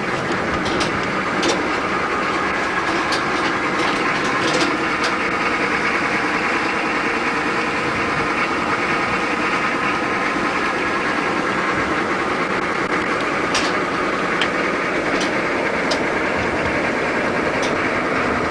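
Steady engine and road noise of a moving car or truck heard from inside the cab, with scattered light clicks and rattles.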